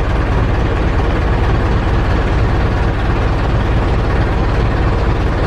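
Boat engine running steadily at an even pace, a loud, constant low drone.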